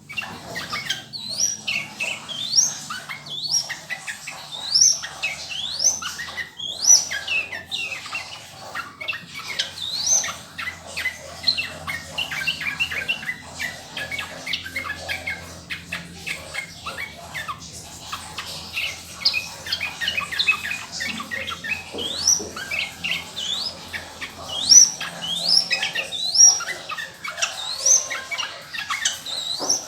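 Yellow-vented bulbul (trucukan) singing: a busy run of short, bright, rising chirping notes repeated over and over without a break.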